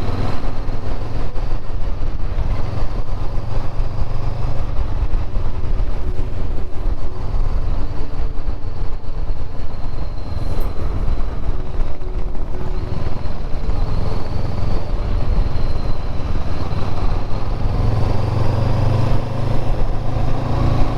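Motorcycle engine running under way, with wind and road noise; the engine note swells louder near the end.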